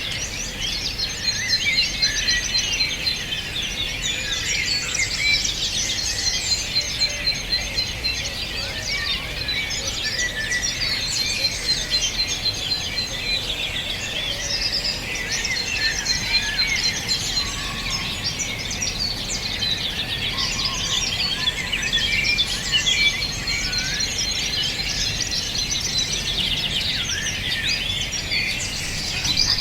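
A dense chorus of many small birds singing and chirping together. Through it, a long, rapid, even trill of high notes comes and goes several times, over a faint low rumble.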